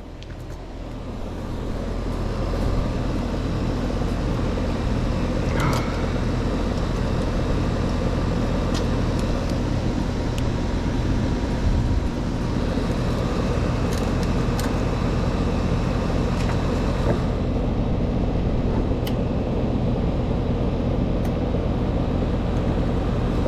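Outdoor air-conditioning condensing unit starting up and then running steadily: a low compressor hum under the rush of the condenser fan, building over the first couple of seconds and then holding level.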